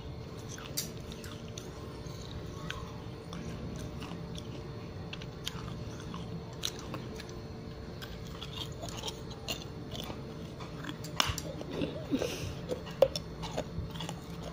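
Close-up chewing and biting of a piece of terracotta clay pot: scattered small crunches and clicks, growing louder and more frequent in the last few seconds, with one sharp crack near the end.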